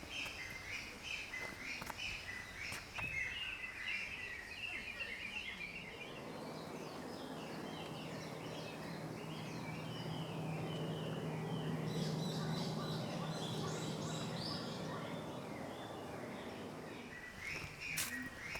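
Small birds chirping rapidly and repeatedly. About six seconds in, a steady low hum with a rushing noise swells and fades over about ten seconds, drowning them out, and the chirping returns near the end.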